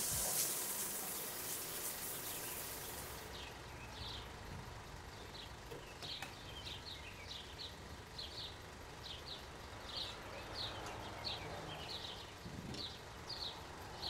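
A small bird chirping, short high chirps repeated roughly every half second, over a faint hiss that fades during the first few seconds.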